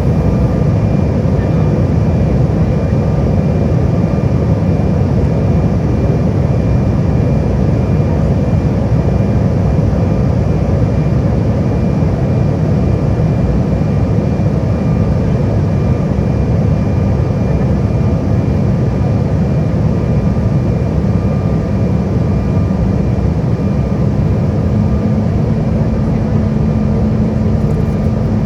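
Jet airliner cabin noise on approach: the steady low noise of the engines and the airflow, with faint steady whines above it. A low steady hum joins near the end.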